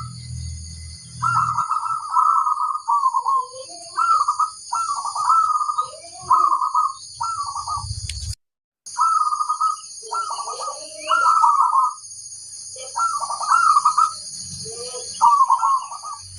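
Zebra doves (perkutut) singing: short trilling coo phrases repeated about once a second, with softer, lower gliding coos between them, over a steady high-pitched hiss. The sound cuts out completely for about half a second, about eight seconds in.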